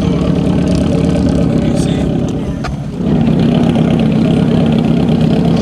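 Car engine running at steady revs. It eases off briefly, then picks up again louder about three seconds in.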